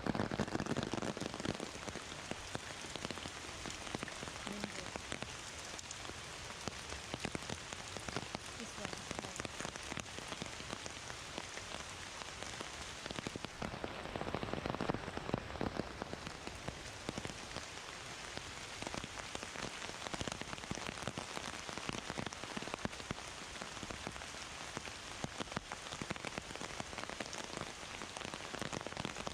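Heavy rain falling steadily, a dense patter of countless drops, swelling louder for a couple of seconds about halfway through.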